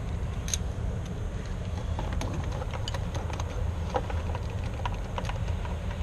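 Scattered light clicks and ticks over a steady low rumble.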